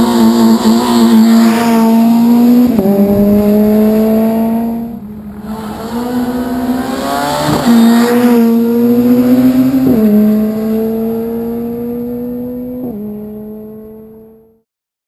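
Rally car engine pulling hard through the gears. Its pitch climbs steadily in each gear and drops sharply at each upshift, about four times, with a brief lift of the throttle around five seconds in. The sound fades away near the end.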